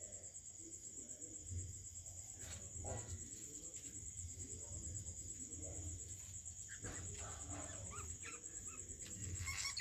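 Faint aviary sounds: a steady high-pitched pulsing trill throughout, with a few faint bird chirps and small knocks in the second half.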